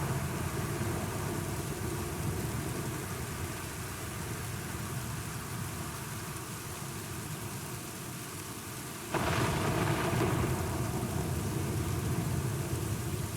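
Steady heavy rain with low thunder rumbling, which abruptly grows louder about nine seconds in.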